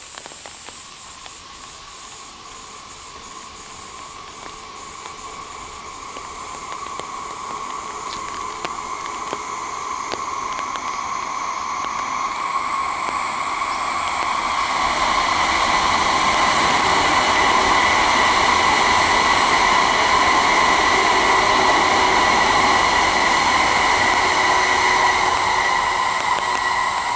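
W7 series Shinkansen test train approaching on the elevated line, its running noise swelling steadily for about fifteen seconds and then holding loud, with a sustained whine running through it.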